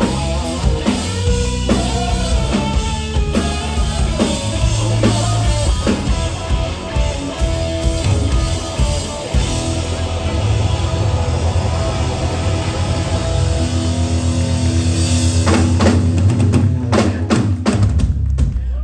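Live rock band, with electric guitar, bass and drum kit, playing loudly. Near the end the steady playing breaks into a series of separate hard drum and cymbal hits.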